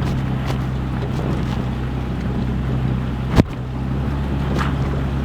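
Steady low running hum of a vehicle with a rushing wind-and-road noise over it, and one sharp knock about three and a half seconds in.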